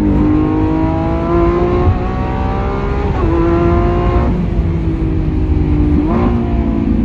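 Lamborghini Aventador SVJ's naturally aspirated V12 running through a Balboni aftermarket exhaust under hard driving. Its pitch climbs slowly and then jumps abruptly at gear changes, about four times.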